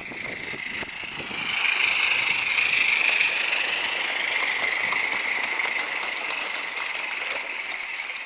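Small 16mm-scale live-steam garden railway locomotive running past, a steady hiss with fast light ticking. It grows louder about two seconds in and then slowly fades.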